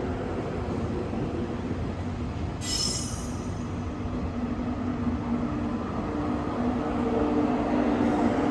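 Electric train moving along a station platform: a steady rumble, with a brief high squeal about three seconds in and a steady hum joining about four seconds in, growing louder toward the end.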